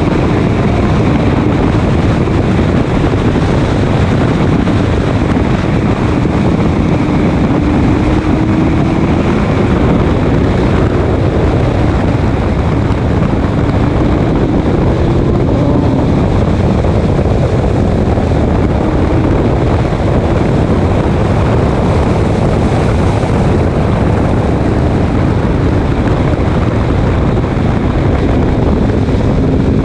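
Race car engine running hard at speed under heavy wind and road noise, its pitch rising and falling a little with the throttle.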